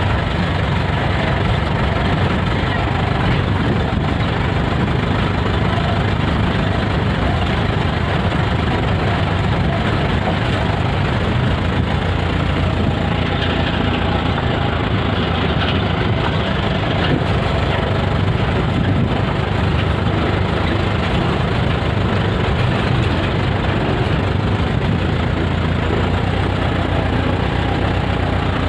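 A vehicle's engine running steadily: a continuous loud rumble with no pauses or changes in pace.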